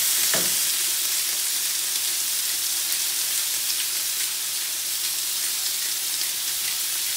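Cubed chicken breast sizzling steadily in hot olive oil in a skillet over high heat: an even, frying hiss.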